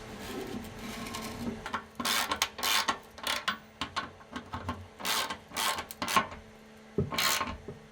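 Short, irregular scraping strokes on metal, about eight in a few seconds, with quieter rubbing and clinking between them.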